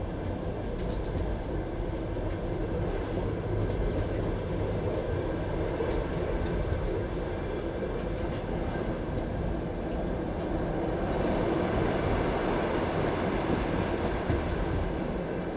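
Passenger train carriage running along the track, heard from the carriage window: a steady rumble of wheels on rails with light clicks here and there.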